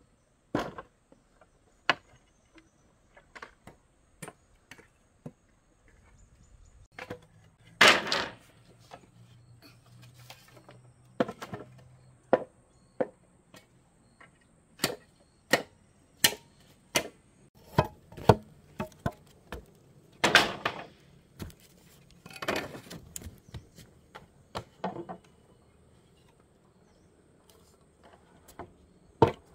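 Irregular sharp knocks and chopping strikes, at times one or two a second with pauses between. The heaviest, longer strikes come about 8 and 20 seconds in.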